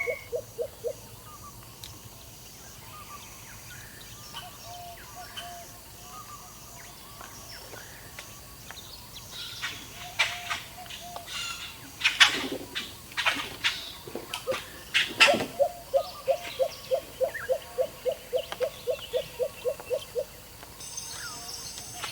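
Wild birds calling and chirping, with a quick run of evenly repeated low notes for several seconds in the second half.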